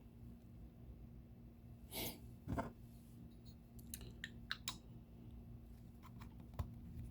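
Faint clicks and light taps of a small metal model engine's parts being handled, with two brief rustling bursts about two seconds in.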